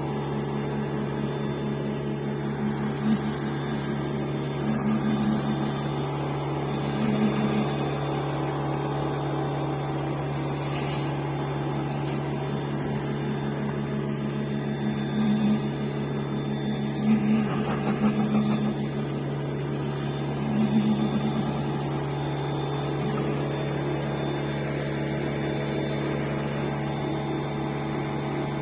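Electric pressure washer running steadily with a low motor-and-pump hum, swelling briefly louder several times.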